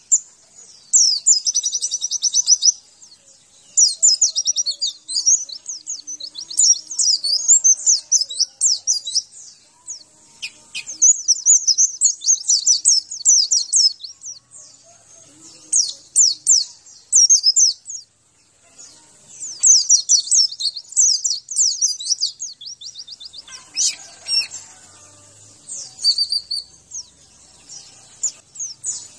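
White-eye (pleci) singing: quick runs of high, thin chirping notes in phrases a second or two long, broken by short pauses.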